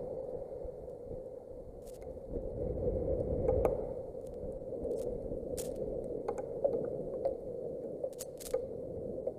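Strong thunderstorm wind buffeting the outdoor camera microphone with a low rumble that swells about two seconds in, and scattered sharp ticks from heavy rain striking the mic and its housing.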